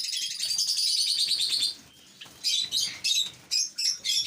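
Small caged birds chirping: a fast, continuous high twittering for the first second and a half or so, then short separate bursts of chirps.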